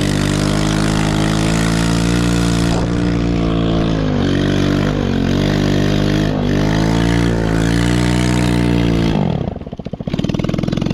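Chinese 110cc ATV's small single-cylinder four-stroke engine running hard, its pitch dipping and climbing again several times with the throttle. About nine seconds in the revs fall away sharply and it settles to a low, pulsing idle.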